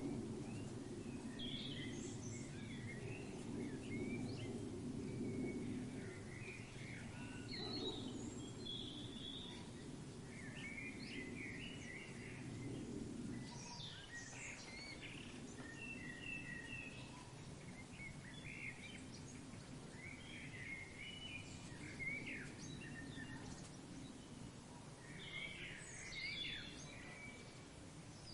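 Many birds chirping and calling in short, overlapping phrases over a steady low background rumble.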